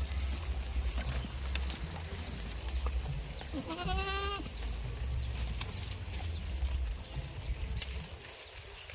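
A goat bleats once, a single quavering call about a second long, roughly three and a half seconds in, over a steady low rumble and scattered faint clicks.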